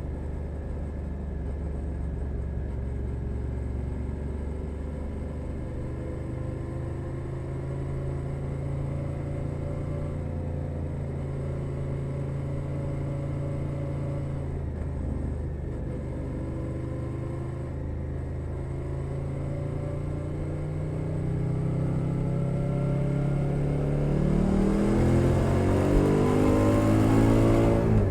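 Suzuki SV 650 V-twin engine through a LeoVince Nero aftermarket exhaust, ridden at a steady part-throttle cruise. In the last several seconds it revs up under acceleration, the pitch climbing and growing louder, then the pitch drops sharply at the very end.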